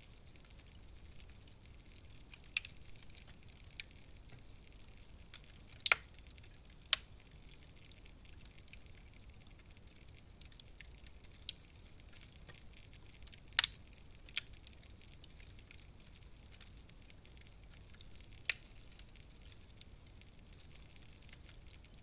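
Wood fire in a fireplace crackling: a soft steady hiss with sharp pops at irregular intervals a few seconds apart, the loudest about two-thirds of the way through.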